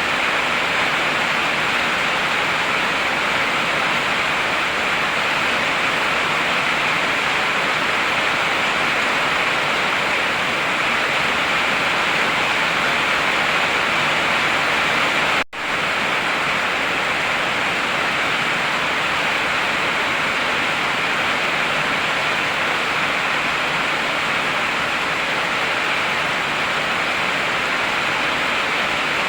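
Heavy rain falling in a steady, even hiss, which drops out for an instant about halfway through.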